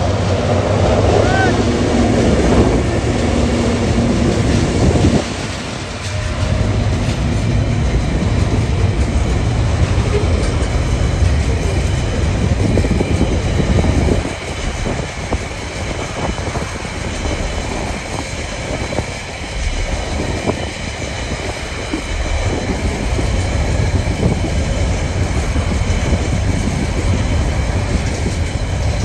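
TasRail freight train passing, led by TR07 and TR12 diesel locomotives: a deep, continuous engine rumble with the wagons rolling along the rails. The sound eases slightly about halfway through.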